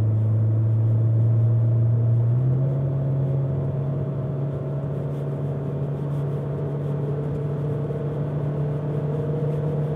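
Honda Civic FC's 1.5 turbo four-cylinder under full-throttle acceleration, heard from inside the cabin as a steady drone through its 2.5-inch exhaust and Spoon N1 muffler. The pitch holds nearly level, as the CVT keeps the revs up, and steps up a little about two and a half seconds in.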